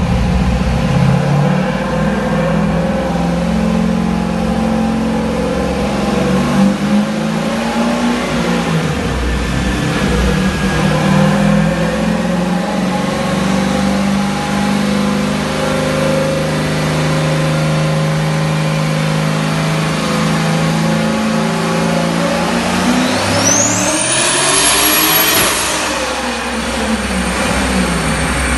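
Turbocharged LS1 V8 running under load on a chassis dyno, holding a steady note for about twenty seconds. Near the end it revs, and a high turbo whistle rises sharply and then stays high.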